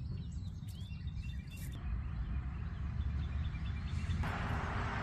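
Small birds chirping over a steady low rumble, with a steady hiss coming in about two seconds in and growing louder near the end.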